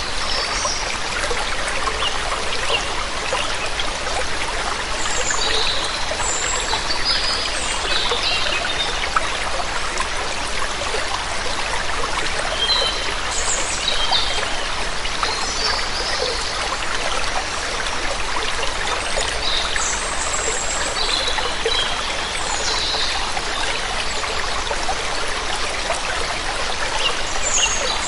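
Waterfall water running steadily. Small birds give short, high chirps scattered over it.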